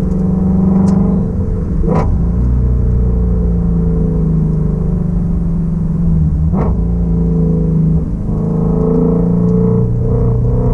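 2016 Shelby Mustang GT350's 5.2-litre flat-plane-crank V8 running at low revs under gentle driving, its note holding steady, dipping and then rising again in the second half. Two brief sharp knocks, about two seconds and six and a half seconds in.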